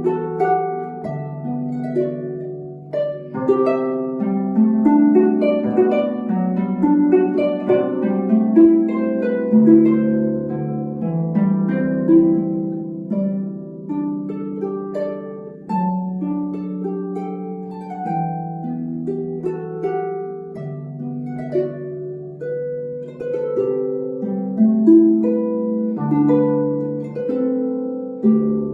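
Solo harp playing a melodic piece, plucked notes ringing over a low bass line, with arpeggiated chords.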